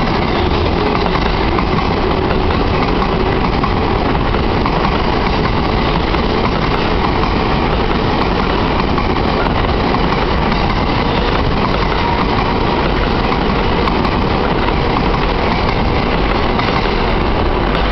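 70-000 series electric commuter train running past on the track, a loud, steady running noise of wheels and motors that holds even throughout.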